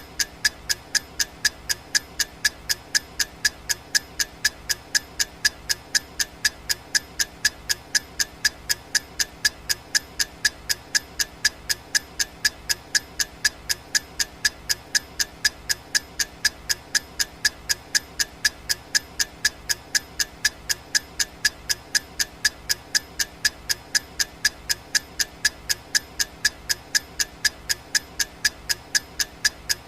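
Clock ticking sound effect of a countdown timer: sharp, evenly spaced ticks with a bright ring, keeping a steady unchanging rhythm.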